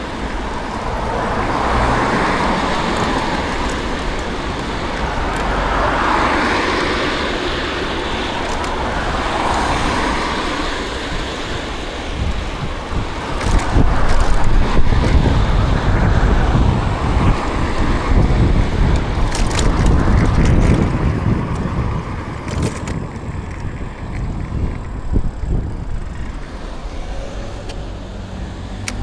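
City street traffic heard from a bicycle: cars pass one after another in the first half, then a louder low rumble takes over around the middle and eases off after a few seconds.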